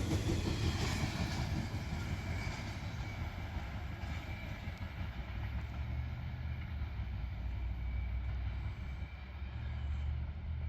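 Freight train cars rolling past, a steady low rumble with a fainter hiss above it that eases after the first couple of seconds.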